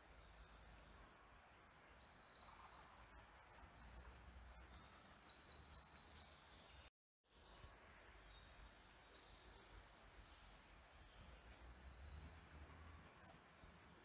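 Faint songbird singing: two bursts of high, fast trilled phrases, the second near the end, over a faint steady hiss. The sound cuts out to silence for a moment about halfway through.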